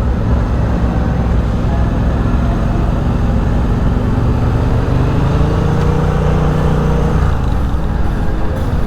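Motorcycle engine running at low speed in city street traffic. A stronger, slightly rising engine note swells between about five and seven seconds in.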